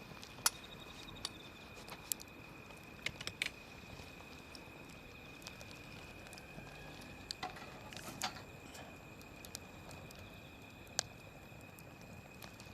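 Wood fire crackling softly, with scattered sharp pops and ticks at irregular intervals over a low hiss. A steady faint high whine sits underneath.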